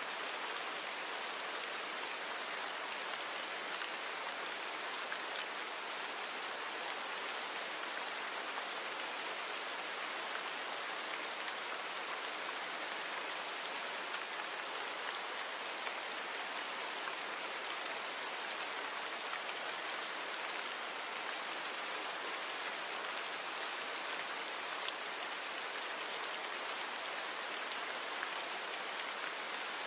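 Steady rain falling, an even hiss of many small drops with no distinct patters or thunder: a natural rain recording with noise reduction applied.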